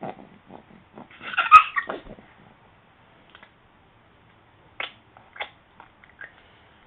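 Baby making wet mouth-smacking noises: a run of quick smacks, a louder, longer burst about a second and a half in, then a few single smacks spaced out near the end.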